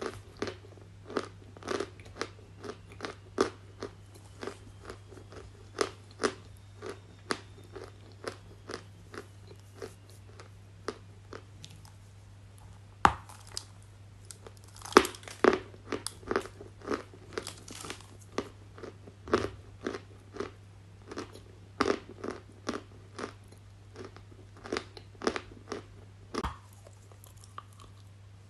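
Close-miked crunching and chewing of hard, crunchy pieces, a series of sharp crunches roughly one to two a second with a few louder bites, over a faint steady low hum.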